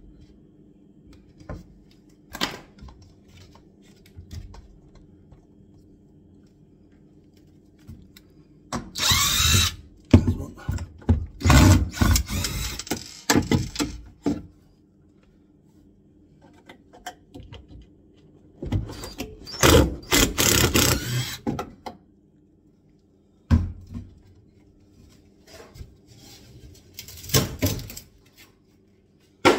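Power drill unscrewing screws in several runs of a few seconds each, some broken into short pulses, with single knocks in between.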